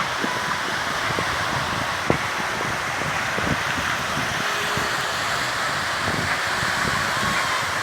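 Steady outdoor noise of wind and road traffic, with small scattered clicks.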